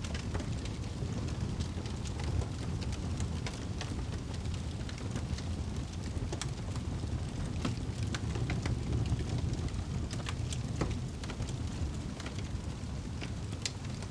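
Wood fire burning in a fireplace: a steady low rumble of flames with scattered sharp crackles and pops, one of the sharpest pops near the end.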